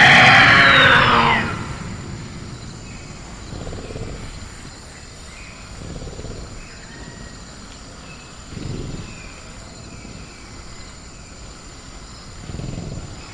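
Velociraptor sound-effect screech, loud and fading out about a second and a half in. It is followed by jungle ambience: a steady high insect drone, faint bird chirps, and soft low rumbles every few seconds.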